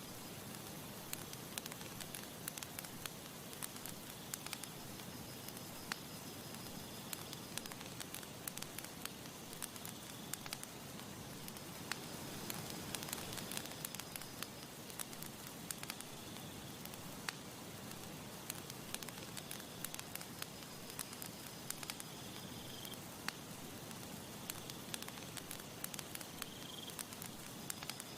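Wood campfire burning, with frequent small sharp crackles and pops over a steady hiss.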